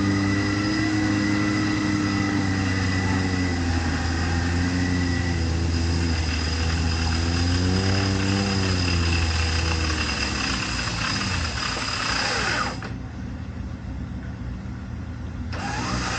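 Off-road 4x4's engine running at low revs, with a brief rise and fall in revs around eight seconds in, easing off after about ten seconds. The sound turns muffled for about three seconds near the end.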